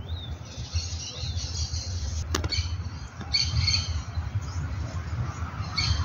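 Small birds chirping in quick clusters of high, twittering notes over a steady low rumble, with one sharp click a little past two seconds in.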